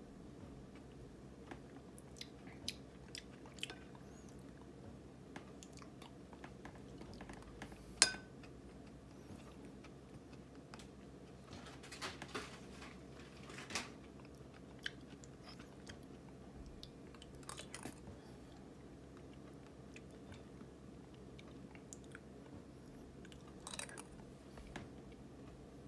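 Faint, deliberate lip-smacking and wet chewing of soft thawed ripe persimmon, in scattered bursts of short smacks. A single sharp click about eight seconds in is the loudest sound, over a faint steady hum.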